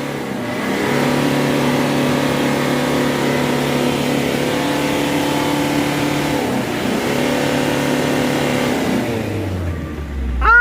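Isuzu Traga pickup's diesel engine held at high revs under load, dipping briefly about two-thirds through and then falling away near the end, as the truck strains in mud and cannot get traction.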